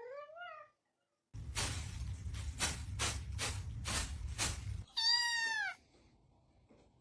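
Domestic cat meowing: a short meow at the start, then, after a brief gap, a rhythmic scratchy noise with a low rumble at about three strokes a second for some three and a half seconds, ending in one loud, clear meow whose pitch arches down.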